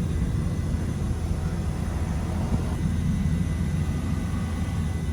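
Steady low mechanical rumble of running machinery, with a faint thin high tone over it.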